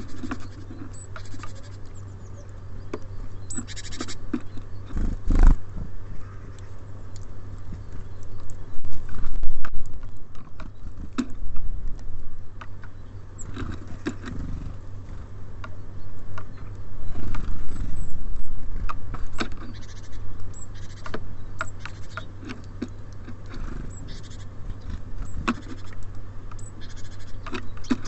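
Small birds feeding at a bird feeder: irregular pecking, tapping and scratching at the seed, with a few short chirps, over a steady low hum.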